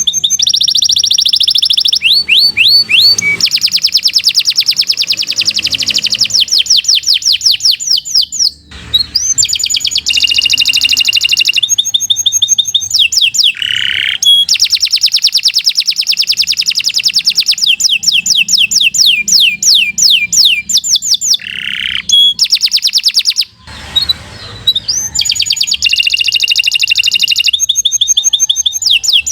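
Domestic canary singing a long, loud song of fast rolling trills, each run of quickly repeated notes giving way to another, with two short breaks.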